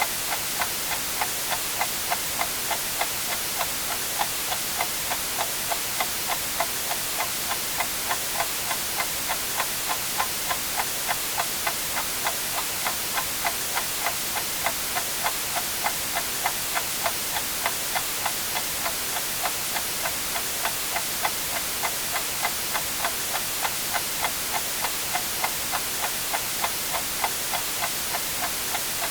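Clock ticking steadily, about two ticks a second, over a constant hiss of white noise.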